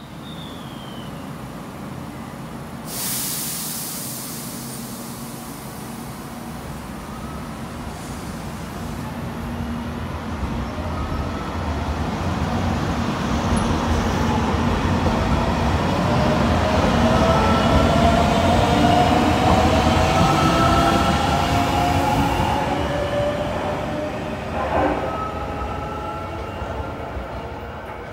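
JR Shikoku limited express electric train pulling out: a burst of air hiss about three seconds in, then the motors' whine rising in pitch as it accelerates. The running noise swells and then fades, with a single clunk near the end.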